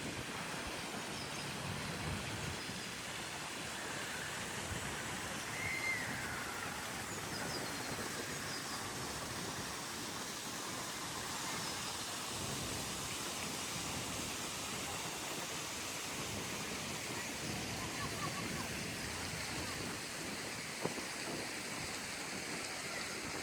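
Ross Fountain's water splashing steadily into its basin: a constant, even rush.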